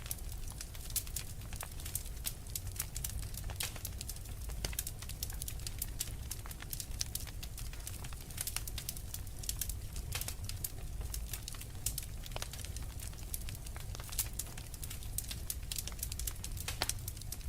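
Wood fire in a fireplace crackling, with many sharp pops and snaps over a steady low rumble.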